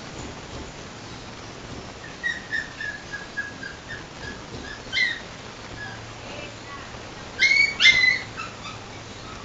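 A dog whining: a run of short, high whimpers, one sharper yelp about halfway through, then two loud, high-pitched cries near the end.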